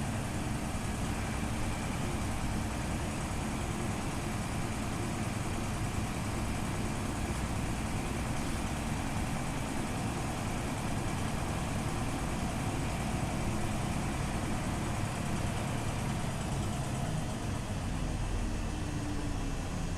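Scania OmniLink CL94UB city bus's engine running steadily, with a low drone and a hiss over it. The pitch shifts slightly near the end.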